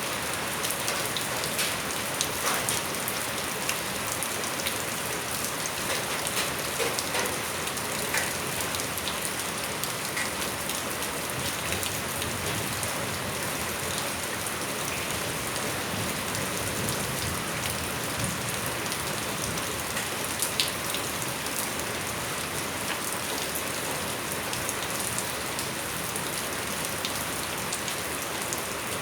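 Steady rain falling on surfaces, an even hiss dotted with many small drop ticks and splashes.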